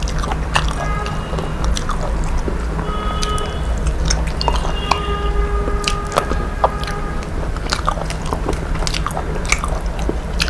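Eating sounds, with scattered sharp clicks of biting and chewing, over background music with a few short held notes and a steady low hum.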